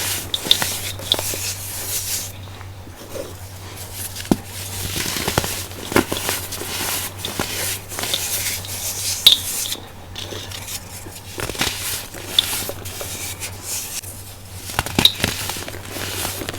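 Crunchy, powdery baking soda being crushed and crumbled. Irregular sharp crackles and clicks run over a soft crumbly hiss.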